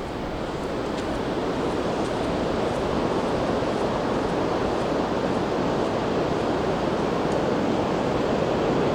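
Ocean surf breaking on a sandy beach: a steady rush of waves that swells a little over the first couple of seconds.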